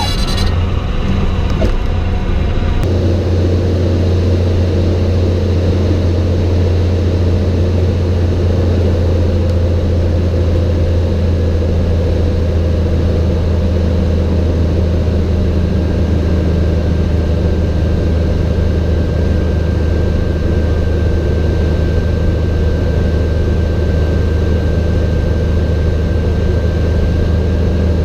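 Cessna 182's piston engine and propeller droning steadily in flight, heard from inside the cabin. An added hiss over the first three seconds stops abruptly.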